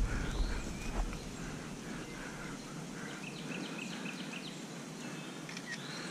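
Quiet outdoor background with a bird chirping a quick series of short high notes about three seconds in, and a faint click about a second in.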